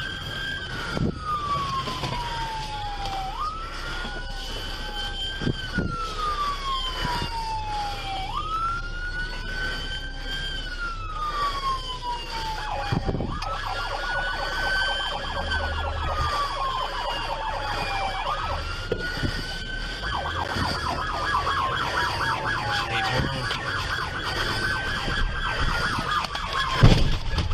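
Police car siren in a slow wail, each cycle rising quickly and then falling slowly over about two and a half seconds. About halfway through, a second, rapidly warbling siren tone joins. There are a few sharp knocks, with a loud one near the end.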